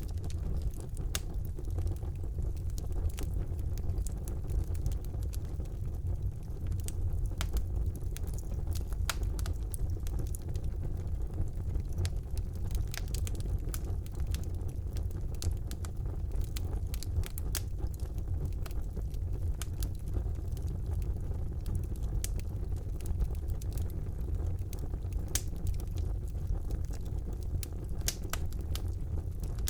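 Fire burning in a fireplace, with many sharp crackles and pops over a steady low rumble of the flames.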